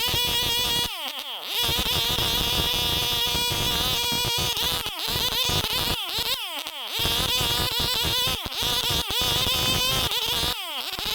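Two-stroke chainsaw engine running at high revs, its pitch dropping and climbing back about four times as the throttle is briefly let off and squeezed again.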